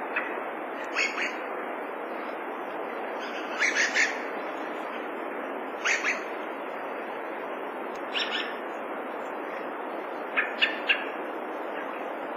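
Dusky thrush calling in short clusters of two or three sharp notes, repeated about every two seconds, over a steady hiss.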